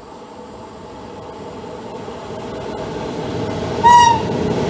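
A train approaching, its rail noise growing steadily louder. About four seconds in, the train gives one short horn toot.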